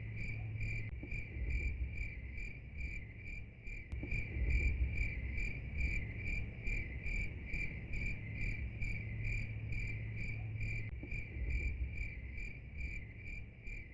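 A cricket chirping steadily, a high-pitched chirp repeated about three times a second, over a faint low hum.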